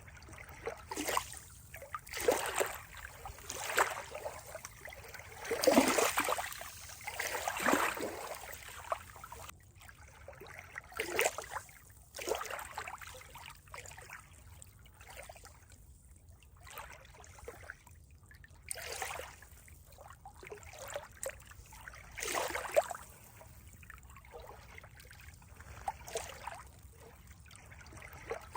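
Water trickling and gurgling in uneven surges, a few splashy gushes a second or so apart over a faint low background.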